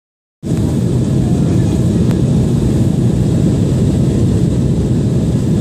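Airplane noise: a loud, steady, deep rumble that cuts in abruptly right at the start and holds level.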